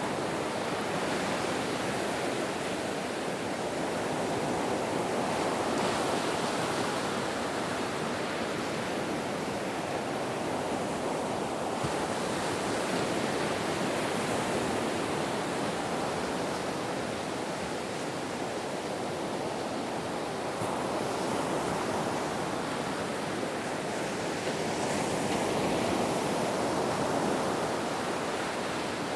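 Ocean surf: waves breaking and washing in a steady roar of surf, swelling and easing every few seconds.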